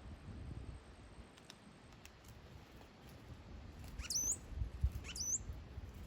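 A bird giving two short, high, swooping calls about a second apart, near the end.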